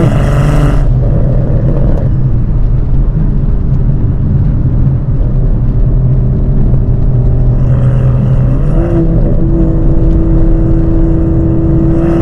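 Toyota GR Supra with a Dinan exhaust and CTS catted downpipe: a high-rev pull ends abruptly about a second in, then the exhaust drones steadily at a low, even engine note.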